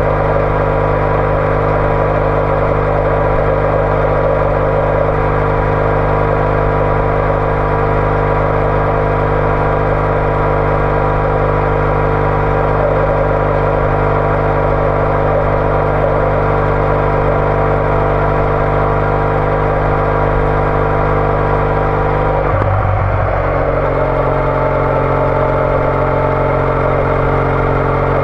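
Triumph Bonneville T214's 865 cc parallel-twin engine running steadily under way through a TOGA aftermarket exhaust. About 22 seconds in the engine note drops quickly and settles at a lower steady pitch.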